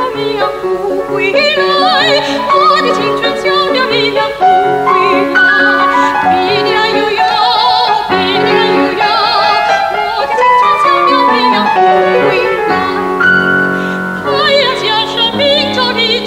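Female soprano singing a Xinjiang folk song in an operatic style with wide vibrato, over instrumental accompaniment.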